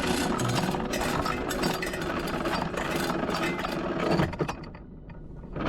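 An engine running with a rattle; the sound drops off briefly near the end.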